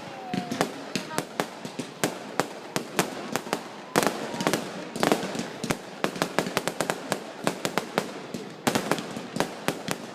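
Fireworks going off in rapid, irregular succession: many sharp bangs and cracks, several a second, with a few louder single bangs among them.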